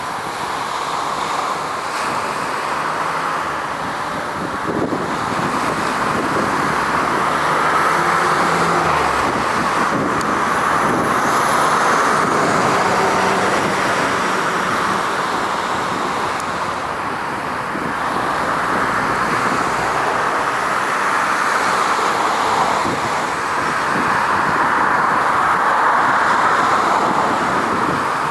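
Steady road traffic noise, swelling and fading every few seconds as vehicles pass, with a faint engine hum in the middle.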